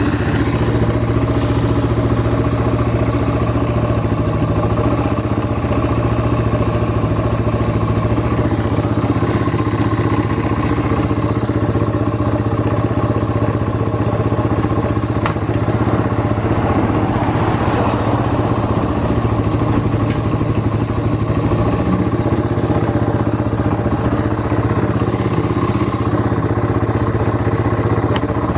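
Yamaha Serow 225's air-cooled single-cylinder four-stroke engine (a swapped-in 4JG unit) idling steadily at a constant speed, running without any abnormal noise.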